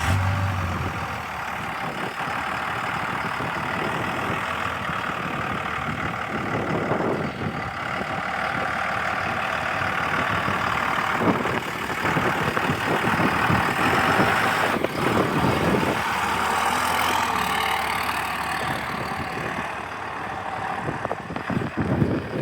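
Cummins 5.9-litre inline-six turbo diesel in a 2002 Dodge Ram 2500 pickup, idling steadily.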